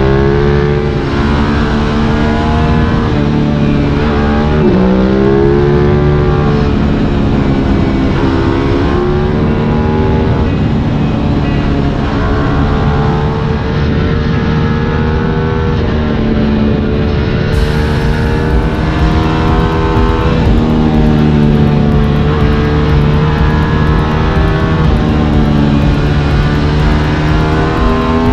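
Sport motorcycle engine running at road speed, its pitch holding steady and then rising and falling as the revs change, over steady wind and road noise.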